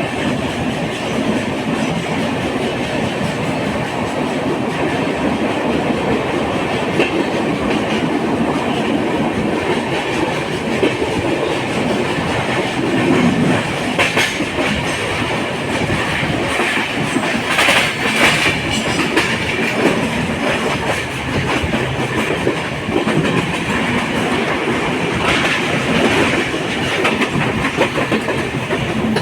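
Passenger train in motion on an LHB coach: a steady rumble of wheels on rail with clickety-clack of rail joints and a few louder clatters around the middle and near the end.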